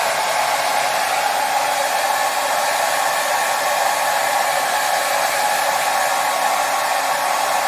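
Hair dryer blowing at a steady speed: a continuous, even whooshing hum with no change, used as soothing white noise for a baby.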